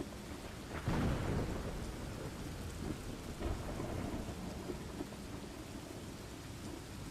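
Rain falling steadily with rumbling thunder; a louder crack or roll of thunder comes about a second in and fades away.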